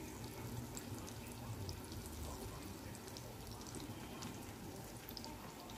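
Two seasoned steaks sizzling in melted butter in a nonstick frying pan: a steady, fairly quiet hiss with small scattered crackles and pops.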